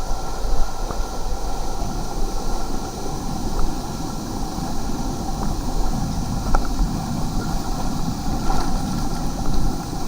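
Steady low rumble with wind buffeting the microphone, faint steady tones and a few faint clicks above it.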